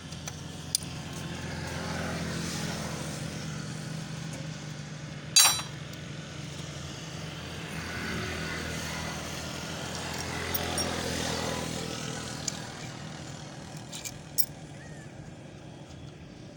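Passing road traffic, a steady engine hum that swells and fades twice. About five seconds in there is one sharp, ringing clank of metal on metal, and a few lighter clicks of tools follow near the end.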